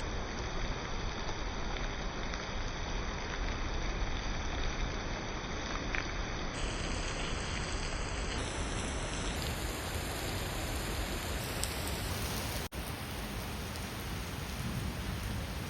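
Steady rain falling, a continuous even hiss, with a brief break in the sound about three-quarters of the way through.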